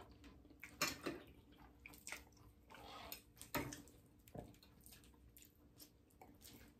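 Faint chewing of fried chicken and pasta, with short mouth smacks at irregular moments.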